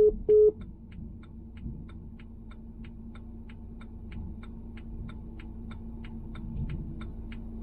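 A phone's call-ended beep tones, two short identical beeps at the very start, then a steady low hum with a fast, even ticking of about three to four ticks a second.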